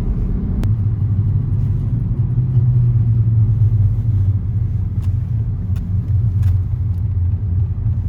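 Car driving, heard from inside the vehicle: a steady low road-and-engine rumble, with a few faint clicks.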